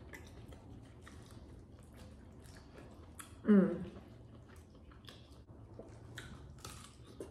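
Close-up eating sounds: soft chewing and many small wet clicks as gloved fingers pick through a seafood boil. About three and a half seconds in there is one short hummed 'mm' that falls in pitch.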